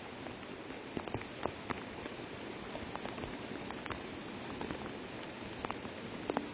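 Rain falling on a flooded road, a steady hiss with scattered sharp ticks of drops, over the rush of floodwater.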